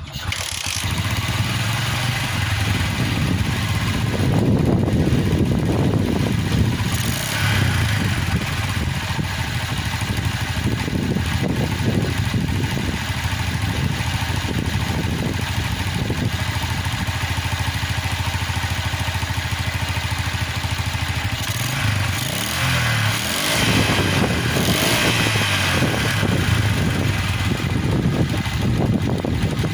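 Small motorcycle engine running on a test ride after an engine rebuild, the revs rising and easing off, dipping about two-thirds of the way through and then picking up again.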